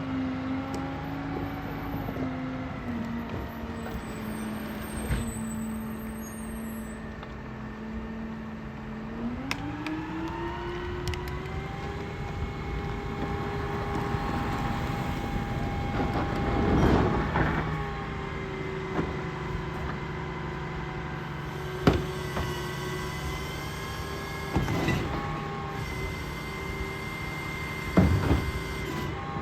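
Garbage truck's diesel engine idling, then revving up about a third of the way in and holding the higher speed, as it does to drive the hydraulic lift and compactor. Several sharp clanks and knocks come over it in the second half.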